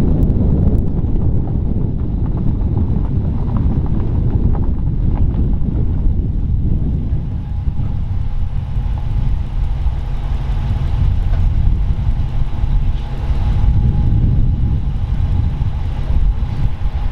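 Steady low rumble of a running motor vehicle, with faint steady engine tones rising out of the noise partway through.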